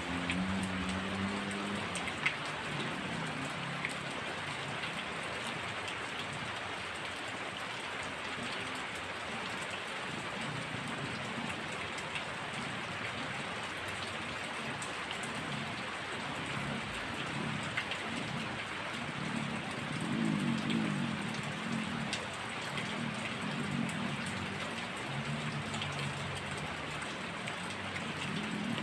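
Heavy rain falling steadily, with a few sharp drip ticks and a low rumble of thunder that swells about twenty seconds in.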